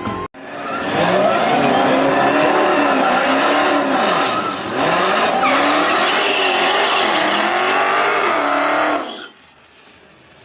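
Drag-race cars' engines at full throttle down the strip, the engine pitch climbing and then dropping several times as the gears change. The sound cuts off suddenly about nine seconds in.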